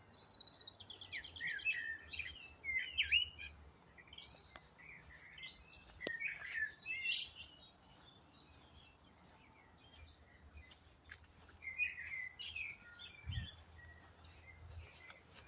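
Songbirds singing: a string of varied high chirping phrases and trills, a rapid trill just after the start, with short pauses between the phrases.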